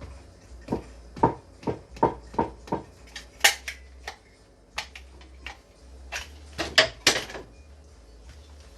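A run of sharp knocks from woodwork on a wooden sink support frame: about five quick, evenly spaced strikes starting about a second in, then a few scattered, louder knocks, with a faint low hum underneath.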